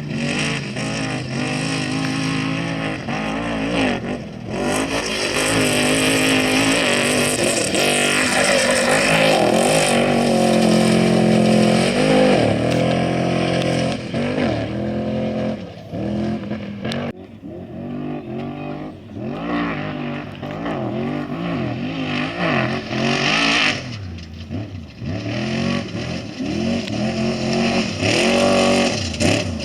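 Off-road race vehicle engines revving hard, their pitch repeatedly rising and falling as the vehicles accelerate, shift and back off on the course.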